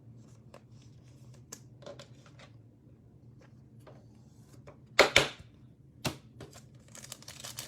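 Trading card pack being handled and opened: light clicks and taps of cards and plastic wrapper, with two short louder crinkling rustles about five and six seconds in.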